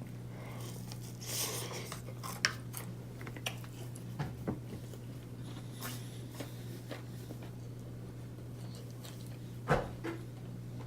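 A person chewing crispy air-fried breaded chicken, with scattered crunches and clicks over a steady low hum; a louder knock near the end.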